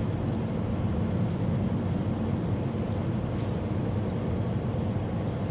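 Steady engine and road rumble heard inside a truck cab while driving on the highway, with a thin high-pitched whine above it.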